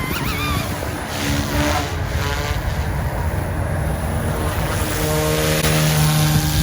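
OMPHOBBY M2 RC helicopter in flight, its rotors and motors whining steadily, with the pitch shifting as it manoeuvres about two thirds of the way in.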